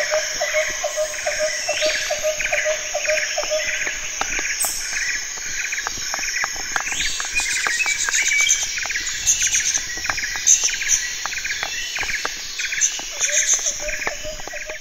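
Mountain bike rattling and clicking over a loose rocky track, with a regular high chirp about three times a second that is clearest in the first few seconds and again near the end.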